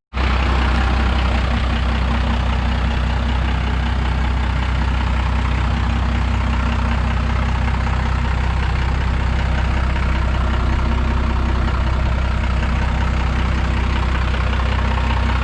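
A 1991 truck's 12-valve Cummins diesel idling steadily.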